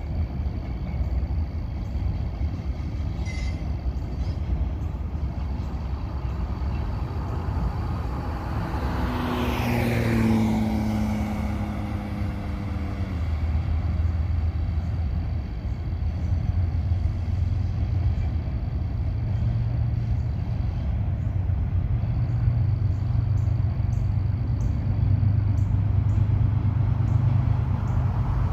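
A vehicle engine running steadily with a low hum. About ten seconds in, a pitched sound passes by, dropping sharply in pitch.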